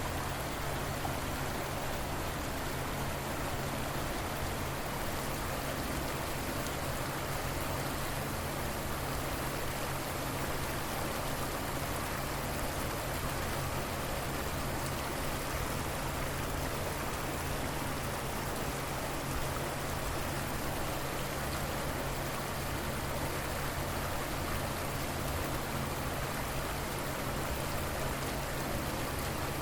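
River water flowing, a steady, even rush that does not change in level.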